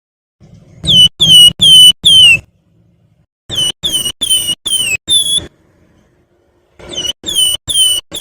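Javan fulvetta (wergan Jawa) singing its whistled 'nyiul' song: three runs of four or five short, clear notes, each note sliding down in pitch.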